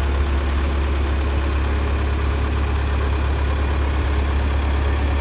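Diesel tractor engine running steadily with a deep, unchanging drone.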